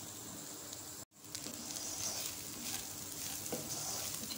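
Shredded chicken and spices sizzling in oil in a non-stick frying pan, with a spatula scraping and stirring through it. The sound cuts out for an instant about a second in.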